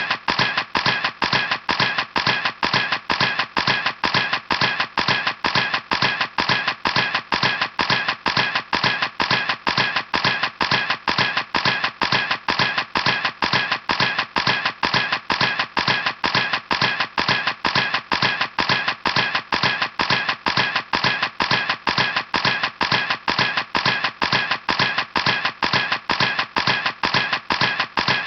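Camera shutter clicking over and over in an even rhythm, about three clicks a second.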